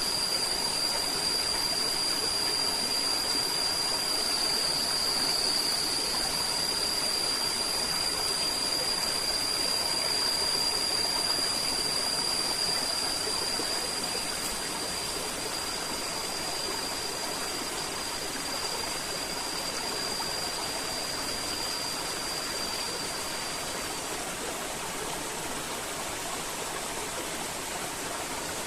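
River water flowing and rushing steadily. A thin, steady high-pitched tone sounds over it and fades out about 24 seconds in.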